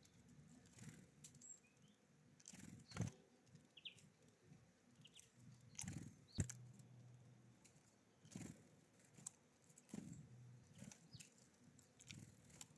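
Small songbirds at a feeder: irregular light knocks and taps, with a few brief high chirps in the first half.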